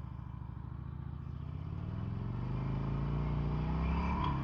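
Harley-Davidson V-twin motorcycle engine running as the bike rides by, growing louder and rising slightly in pitch from about halfway in, with a brief clack near the end.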